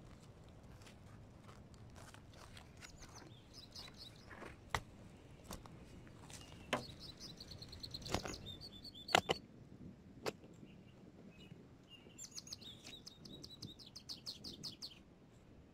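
Small songbirds chirping, with several quick trills of high repeated notes. A few sharp knocks or clicks stand out, the loudest about nine seconds in.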